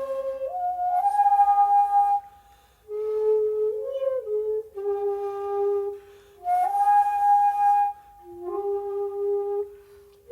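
Solo shakuhachi playing long held notes that slide between pitches, with breathy note onsets. The phrases break off twice for short pauses.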